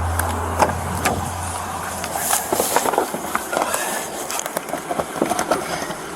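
Road vehicle noise with a low engine hum that fades out about two seconds in, and scattered clicks and knocks.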